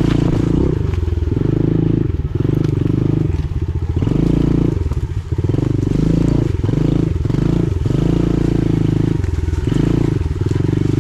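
Pit bike's small engine running under varying throttle while being ridden, its note dropping off and picking back up several times.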